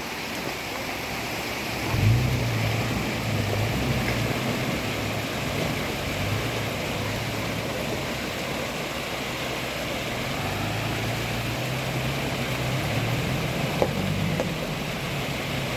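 A motorcycle engine comes in sharply about two seconds in and runs at low revs over the steady rush of the creek water, its note rising a little near the end.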